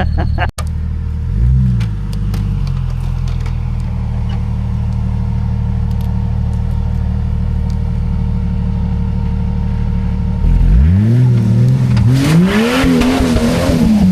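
Off-road 4x4's engine running steadily with a thin steady whine. From about ten seconds in it revs up and down hard several times.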